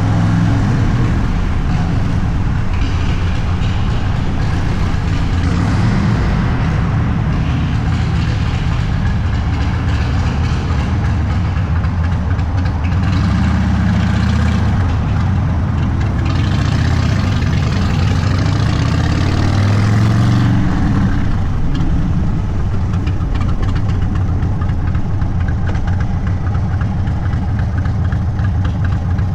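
Indian Sport Chief's V-twin engine running through a Sawicki Speed aftermarket exhaust at low speed. The revs rise and fall twice around the middle, then it settles into a steady low rumble.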